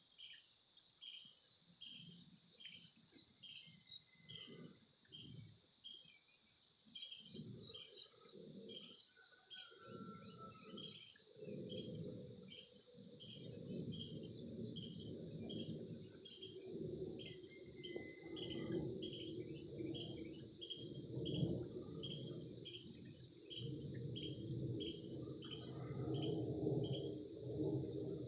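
Insects chirping in a steady rhythm, about two chirps a second, over a steady high insect drone, with scattered short high bird chirps. From about a quarter of the way in, a low, fluttering hum builds and becomes the loudest sound.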